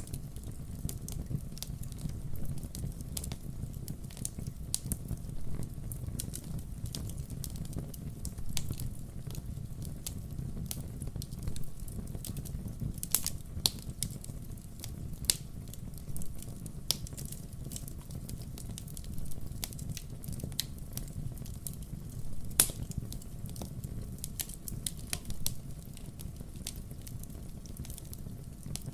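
Wood fire crackling: irregular sharp pops and snaps over a steady low rumble, with one louder pop a little past the middle.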